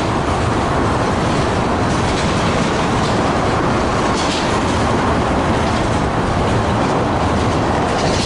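Freight train cars rolling past on the rails: a steady, loud rumble of wheels on track, with a few brief, sharper clicks.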